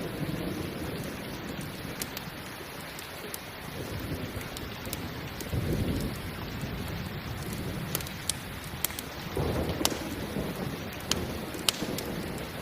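Steady rain with thunder rumbling low twice. Sharp snaps of a crackling campfire come through over it in the second half.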